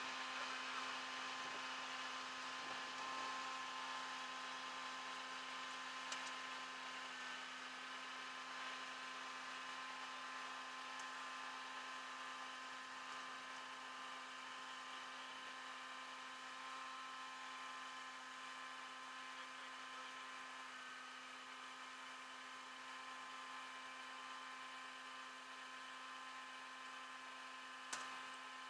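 A faint, steady mechanical hum made of several constant tones, slowly fading, with one sharp click near the end.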